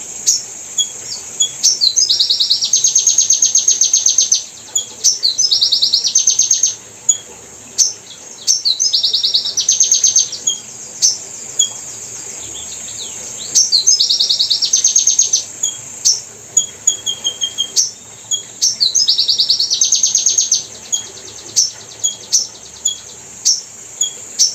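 Hummingbird calling: a few sharp, high chirps lead into a fast, buzzy trill about a second and a half long. The phrase repeats every three to four seconds over a steady high hiss.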